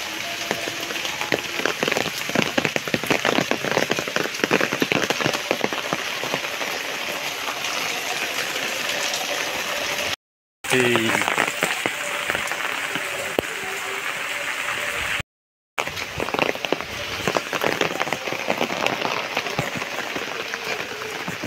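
Steady rain falling on the ground and foliage, a dense patter of drops over an even hiss. The sound cuts out completely twice for a moment, about ten and fifteen seconds in.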